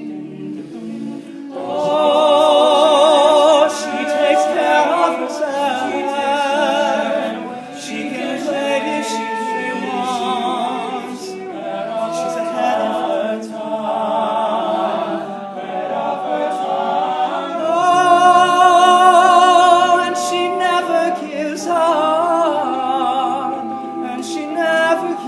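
All-male a cappella group singing wordless harmonies through the song's instrumental break, with a high lead line sung with vibrato over sustained backing chords; it swells louder twice.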